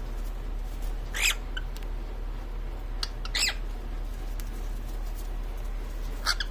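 Female cockatiel giving short, shrill calls, three of them a couple of seconds apart, in what is presented as her mating call. A steady low hum runs underneath.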